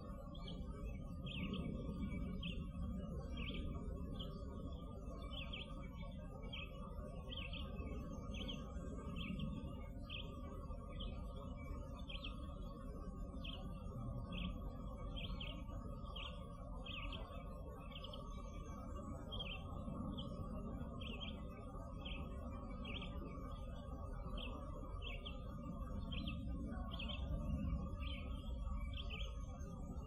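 A songbird repeating a short, high chirp about three times every two seconds, over a constant low rumble.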